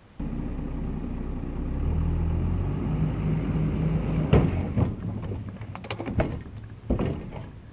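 Truck engine running, picking up a little about two seconds in, with several sharp knocks and clunks in the second half.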